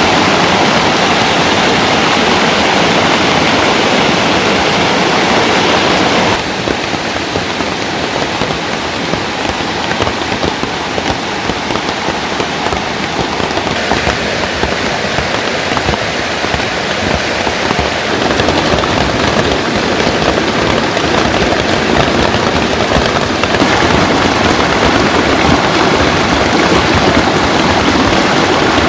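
Steady heavy rain falling, a dense even hiss. Its character shifts abruptly about six seconds in and twice more later.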